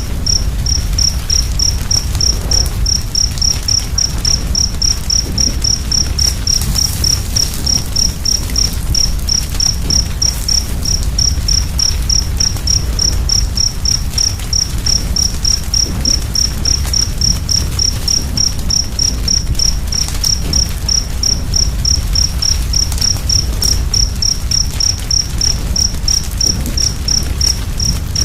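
A cricket chirping steadily, about three or four short high chirps a second, over the low steady rumble and faint crackles of a wood fire.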